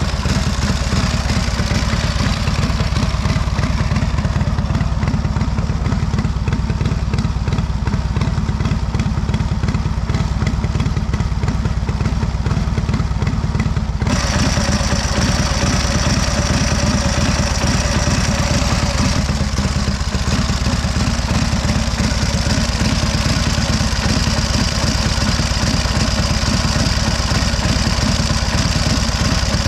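1928 Indian 101 Scout's V-twin engine idling steadily after a cold start. A higher hiss joins the engine sound about halfway through.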